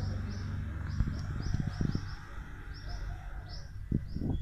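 Small birds chirping in quick repeated short notes, over a low rumble, with a sharp knock about a second in and another near the end.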